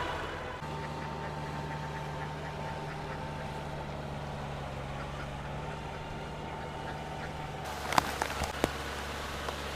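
An engine running steadily with a low, even hum, and a few sharp knocks about eight seconds in.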